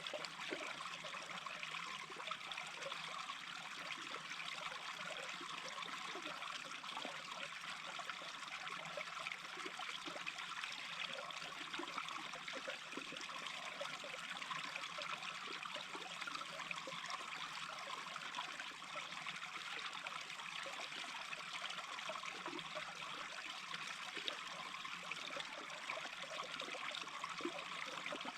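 Small brook babbling steadily, a continuous trickling and burbling of shallow running water.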